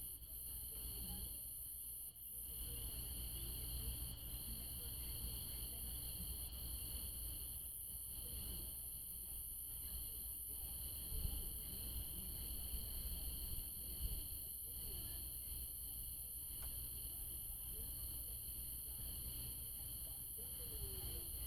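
A continuous chorus of night insects such as crickets, several high-pitched trilling songs held steady together, over a low rumble.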